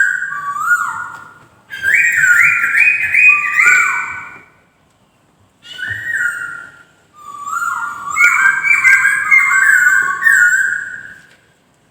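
Poksay (laughingthrush) singing: loud whistled phrases of quick, repeated, slurred notes, in several bursts with short pauses between them.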